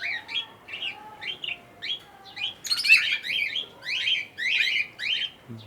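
Small aviary parrots chirping over one another, a busy string of short, shrill, quickly falling calls with no pause.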